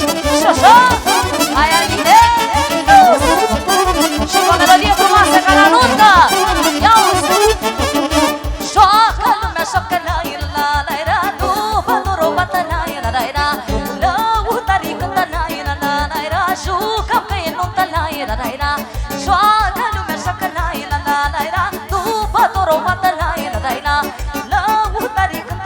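Romanian folk party dance music played live, mainly instrumental: a steady, fast beat under an ornamented, wavering lead melody.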